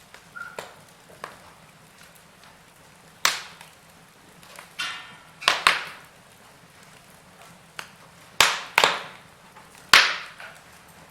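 Wood fire crackling in a fireplace: scattered sharp pops and snaps, several of them loud, over a soft steady hiss.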